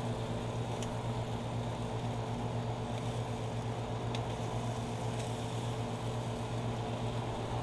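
A steady low mechanical hum of a running motor under an even hiss, with two faint ticks about a second in and about four seconds in.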